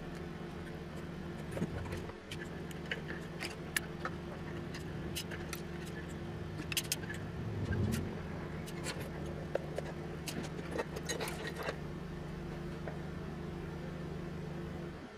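Light metallic clicks, taps and small rattles of tools and parts being handled at a repair bench, over a steady low electrical hum that cuts off near the end.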